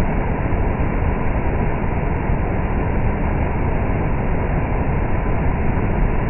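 Heavy rain pouring down, a steady even noise with no letup.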